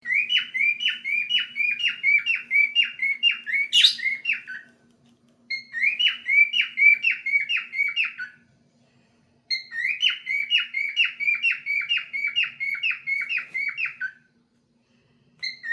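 Male cockatiel singing: quick runs of repeated whistled notes, about three a second, in three phrases with short pauses between them, and one sharper, louder note about four seconds in. A faint steady hum lies underneath.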